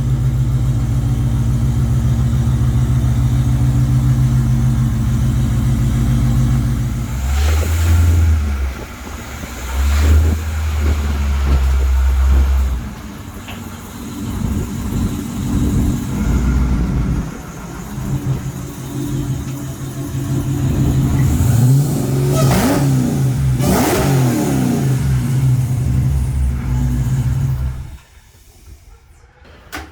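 High-powered drag race car engines running hard under acceleration, surging and dipping, with rising pitch sweeps about two-thirds of the way through. The sound falls away sharply near the end.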